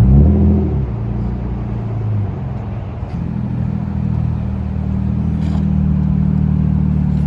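Car engines running at idle, one of them swelling louder for a moment at the start.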